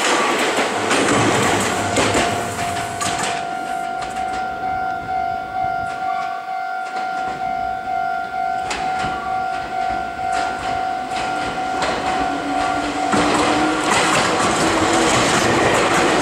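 Meitetsu electric trains passing close by. A red train's cars rush past and fade out after about three seconds. A steady ringing tone follows, then a rising whine, and a Meitetsu 5000-series stainless train rushes loudly past in the last few seconds.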